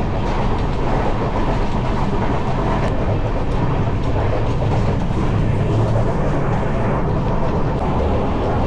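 Indian Railways passenger coach running along the track: a steady, loud rumble of wheels on rails and a rattling carriage, heard from inside the coach.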